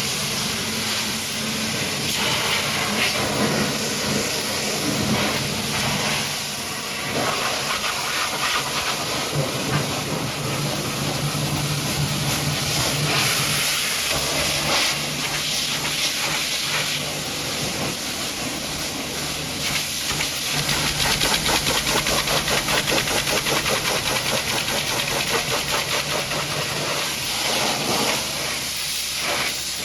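High-pressure washer jet spraying water onto a muddy truck: a continuous hissing spray whose level shifts now and then, with a fast flutter in the second half.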